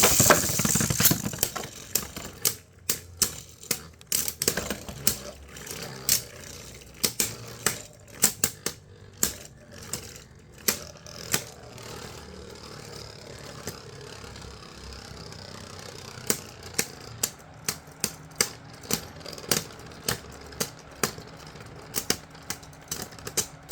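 Two plastic Beyblades, Gyro Engine Gear and Drigger S, spinning in a stadium: a loud rush as they are launched at the very start, then irregular sharp plastic clacks as they collide, over a faint steady spinning whir. The clacks cluster around eight to eleven seconds in and again near the end.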